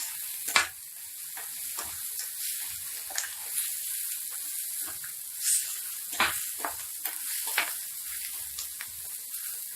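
Sliced onions frying in oil in a kadai, a steady high sizzle, while they are stirred, with sharp scrapes and knocks against the pan every second or so.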